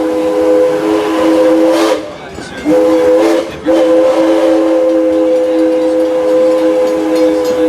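Steam locomotive's chime whistle sounding a chord of several notes: a long blast that ends about two seconds in, a short blast, then a long blast held through the rest.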